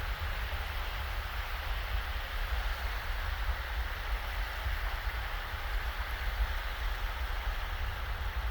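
Small, shallow waves washing steadily onto a sandy beach, a continuous soft wash with no distinct breaks, under a low rumble of wind on the microphone.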